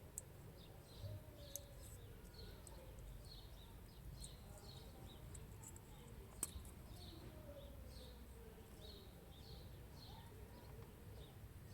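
Near silence with faint, repeated short high chirps of birds in the background and two small clicks, the second louder, about six and a half seconds in.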